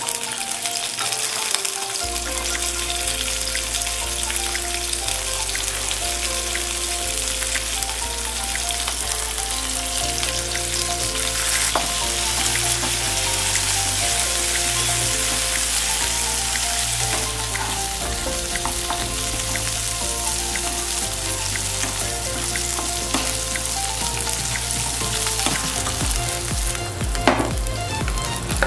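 Food frying in a hot pan: a steady sizzle of oil with fine crackles. Background music with a stepping bass line plays underneath, with the bass coming in about two seconds in.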